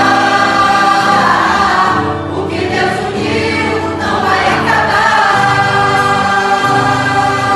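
Mixed choir of men and women singing a gospel hymn in sustained, held notes over a steady low accompaniment.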